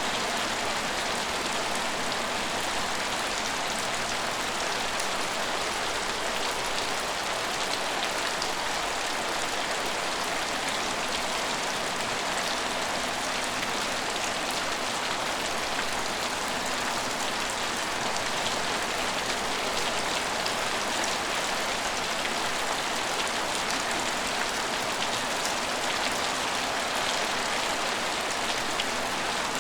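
Steady rain falling on hard surfaces, with scattered drops ticking.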